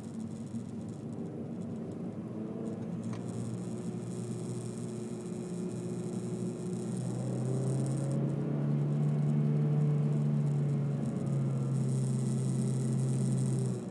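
Honda Civic 1.8 i-VTEC four-cylinder engine running, heard from inside the cabin with road noise. Its hum steps up in pitch and loudness about halfway through, then eases slightly near the end, with a single click about three seconds in.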